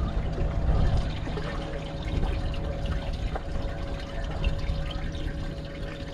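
Water splashing and trickling, with scattered small splashes over a faint steady hum.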